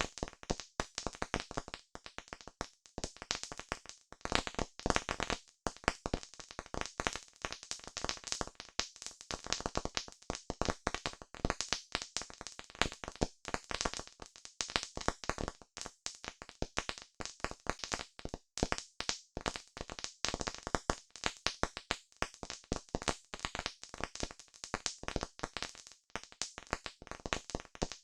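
Campfire crackling: a dense, irregular stream of sharp pops and snaps from burning wood.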